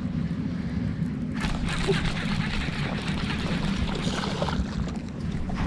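Water splashing and sloshing beside a boat for a few seconds, starting about a second and a half in, over a steady low hum.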